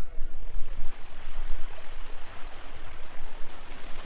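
Steady rush of sea surf along the shore, with wind buffeting the microphone in uneven low gusts.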